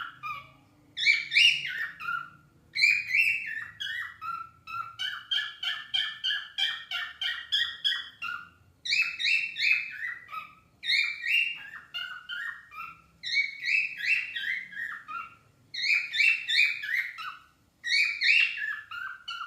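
Cockatiels singing: repeated phrases of quick chirped whistles, each phrase stepping down in pitch, coming every couple of seconds.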